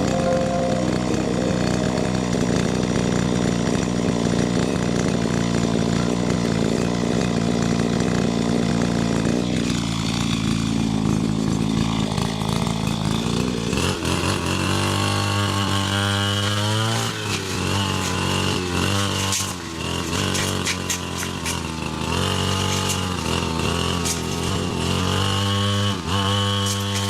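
A small motorised power tool's engine runs at a steady speed, then about halfway through its speed begins rising and falling again and again, as if it is being worked under load.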